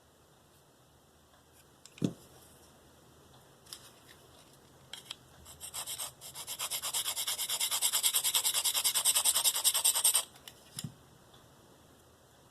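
A steel knife blade stroked rapidly back and forth on a coarse (45 micron) DMT Diafold diamond sharpening plate, a gritty scraping at about six strokes a second for some four seconds that stops suddenly, raising a burr on the edge. A single knock comes about two seconds in and a lighter tap near the end.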